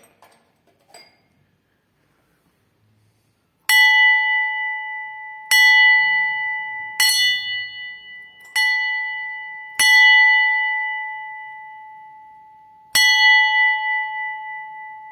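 A bell struck six times at uneven intervals, each strike ringing on with a clear steady tone and higher overtones that fade slowly. A few faint clicks come before the first strike.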